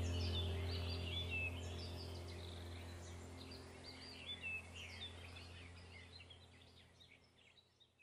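Chirping birdsong over a low steady drone, the whole fading out gradually to near silence by the end.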